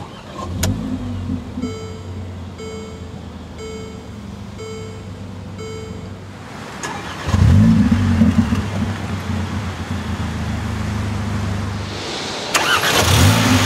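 A 2015 Mercedes-Benz GLA45 AMG's turbocharged 2.0-litre four-cylinder starting and idling, heard from inside the cabin, while a warning chime beeps five times, about once a second. About seven seconds in the engine gets much louder and then holds a steady fast idle. Near the end it is louder still, with more hiss.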